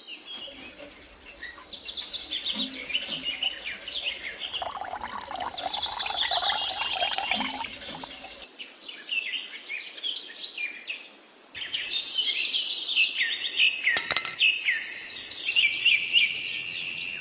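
Many small birds chirping and twittering together, a dense run of quick high calls. It thins out about eight seconds in and comes back strongly a few seconds later.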